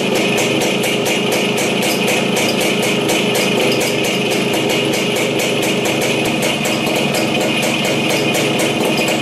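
WSK 125's single-cylinder two-stroke engine idling steadily on its newly fitted electronic CDI ignition.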